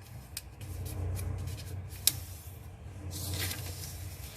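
A sheet of paper being folded and creased by hand: rustling as the edge is brought over, a sharp crackle about two seconds in, then fingers rubbing hard along the fold near the end to crease it sharply.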